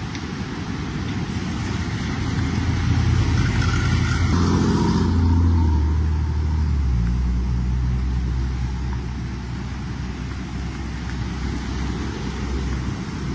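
A motor vehicle's engine passing, growing louder to a peak about five seconds in and then fading, over a steady rushing noise.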